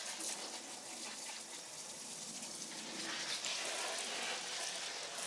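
Steady rushing water noise, an even hiss without pauses.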